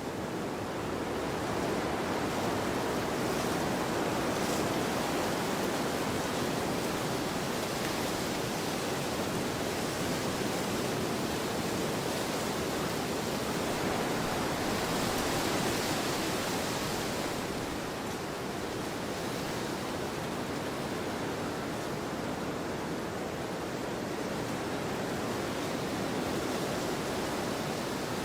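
Wind blowing across an open field, a steady rushing noise that swells and eases slowly, stronger in the first half and a little weaker near the end.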